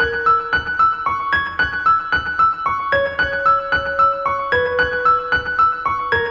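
Background music: a gentle electric-piano tune played at an even pace, about three notes a second over held lower notes.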